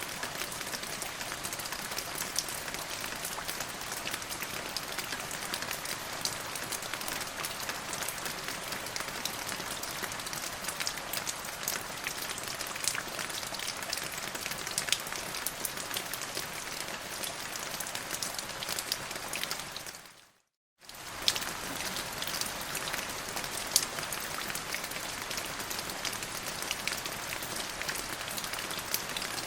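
Steady rain falling on a surface, an even hiss with many separate drop hits. It fades out to silence about twenty seconds in and comes back within a second.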